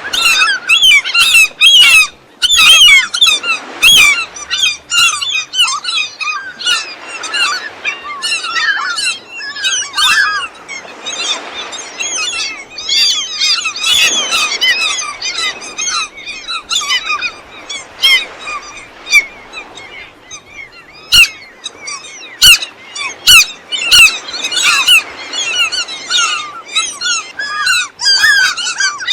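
A flock of gulls calling at once: many short, high, overlapping cries in a dense unbroken chorus, with a few sharp clicks past the middle.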